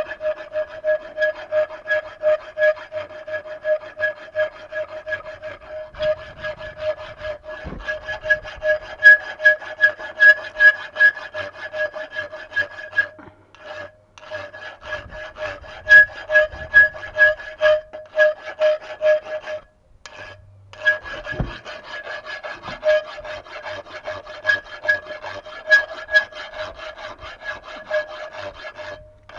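Hand tool rasping back and forth in a steady rhythm of about two strokes a second, with a faint ringing tone over the strokes. It stops briefly twice.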